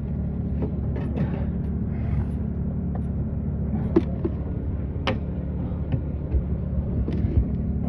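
Steady low rumble of a vehicle engine running, with a few sharp clicks about four and five seconds in.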